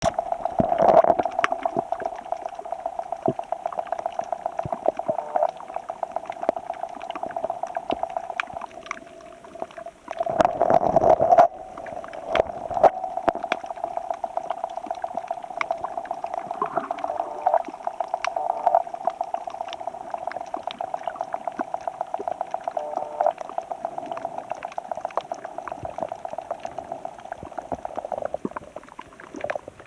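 Sea water bubbling and sloshing around a camera in shallow water, with a steady run of quick bubbly ticks and louder surges about a second in and again around ten seconds in.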